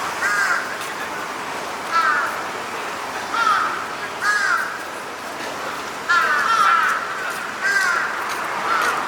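Crows cawing, about seven short harsh caws at irregular intervals, two or three in quick succession a little after the middle, over a steady background hiss.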